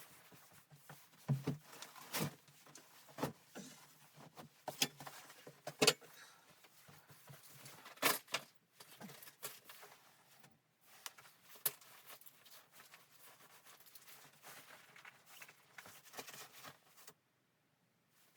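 Irregular knocks, taps and clatter of objects being handled in a small room, with a few sharper knocks among them, stopping abruptly near the end.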